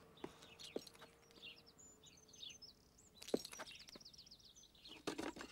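Faint songbirds chirping, with a quick trill about three seconds in, and a few light clicks and knocks among them.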